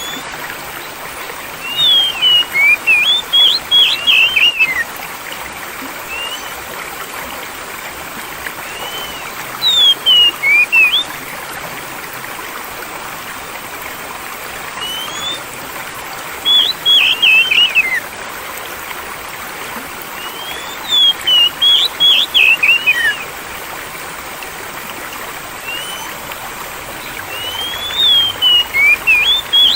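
Steady flowing water, like a small stream, with a songbird singing quick whistled phrases over it in five short bursts, each a second or two long and a few seconds apart.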